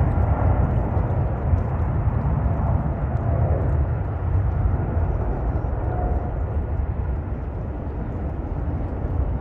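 Jet airliner engine noise: a low, steady rush that slowly fades as the aircraft moves away.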